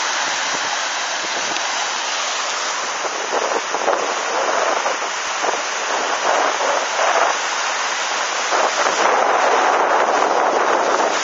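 Strong wind and heavy swell in rough weather: a loud, steady rush of noise that swells in gusts, a little stronger about nine seconds in.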